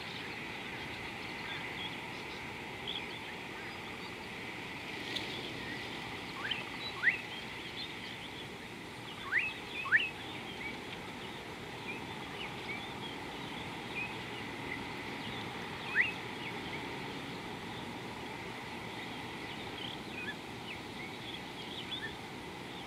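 Birds calling over a steady outdoor hiss: many short chirps throughout, and loud, quick upward-sweeping whistles, two close together about seven seconds in, two more around ten seconds and one at sixteen seconds.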